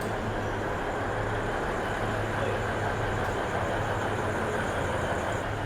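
Train engine running steadily at idle: a constant low hum under a wash of noise.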